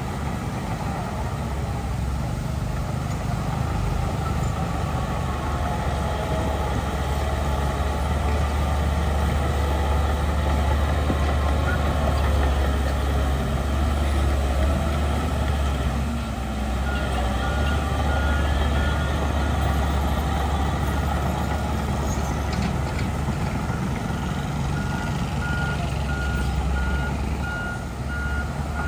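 Heavy diesel earthmoving machinery running steadily with a deep rumble. A reversing alarm beeps rapidly for a second or two about 17 seconds in, and again from about 25 seconds to the end.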